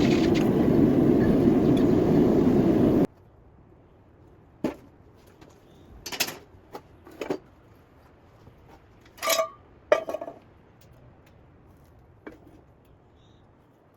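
A loud, steady roar that cuts off abruptly about three seconds in, followed by a few scattered light clinks and taps, like metal objects being handled.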